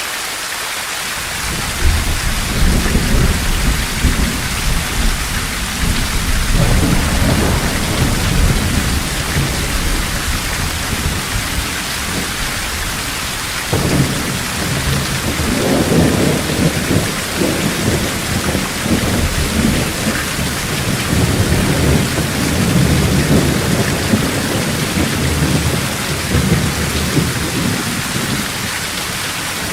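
Heavy rain falling steadily, with deep rolling rumbles of thunder that start about two seconds in and swell and fade several times.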